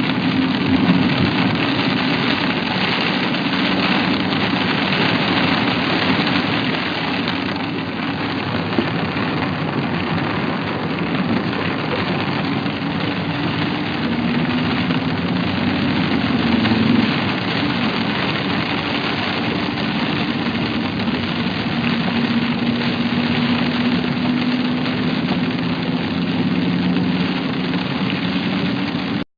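Car engine running steadily under a constant hiss; the engine's low hum drifts slightly in pitch.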